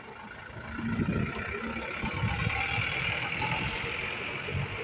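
Minibus engine running as the bus moves through the terminal, getting louder about a second in and then holding steady.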